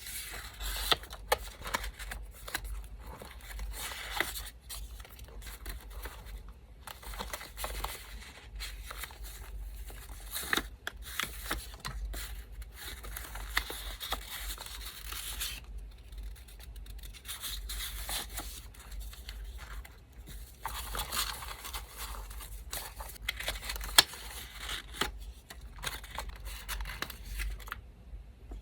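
Scissors snipping and small pieces of paper being torn, rustled and handled, irregular and close up, with a few sharp clicks. A faint steady low hum from an electric fan runs underneath.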